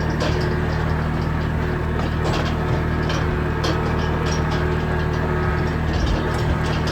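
Engine running at a steady speed, with irregular clicks and crackles over it.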